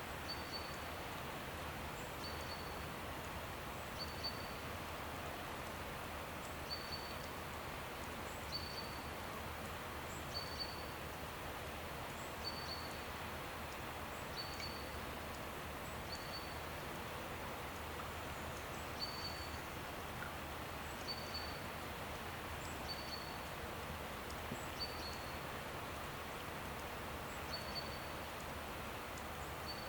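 A bird repeating one short, high call about every two seconds over a steady outdoor hiss.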